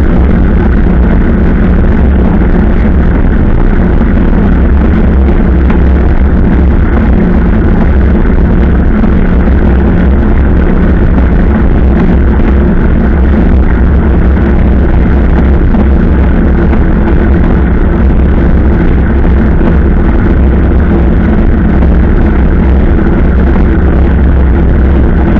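Motorcycle running steadily at cruising speed, a constant low engine drone mixed with heavy wind rumble on the microphone.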